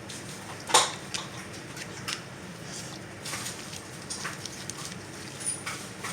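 A dog eating eggs off a plate held for her: irregular clicks and clacks against the plate, the loudest a little under a second in.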